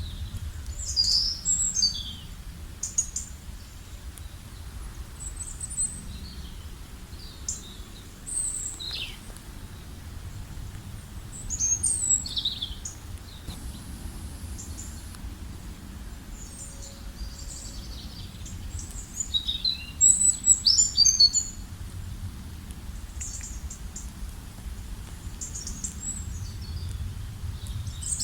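Small birds chirping and calling at intervals, with short high chirps and quick falling notes, busiest about a second in, around the middle, and again about two-thirds of the way through. A steady low rumble runs underneath.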